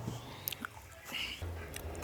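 A person chewing and biting food close to the microphone, with a few small sharp clicks.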